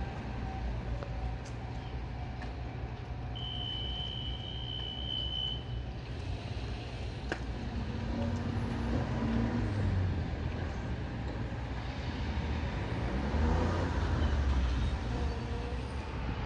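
Kotoden electric train running, a steady rumble with a motor whine that rises and falls twice. A short high steady tone sounds a few seconds in.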